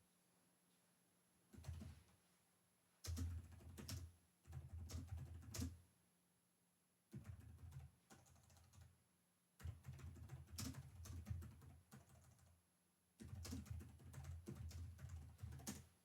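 Typing on a computer keyboard in short runs of rapid key clicks, broken by brief pauses of a second or so.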